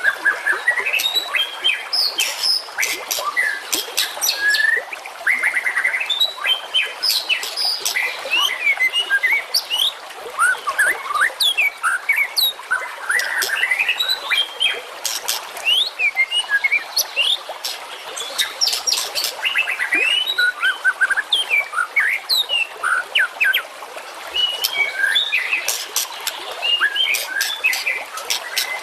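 Dense, fast songbird song of chirps, whistles and quick trills, one phrase after another with only short lulls: a masteran recording of songbird calls used to train caged songbirds such as white-rumped shamas.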